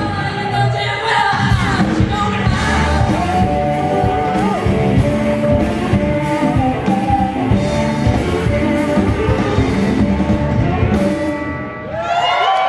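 Live rock band playing, with a singer; the playing drops away near the end.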